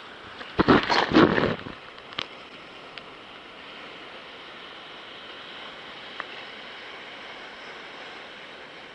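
Sea water washing and lapping around a kayak, with one loud splash a little under a second in and a short knock soon after.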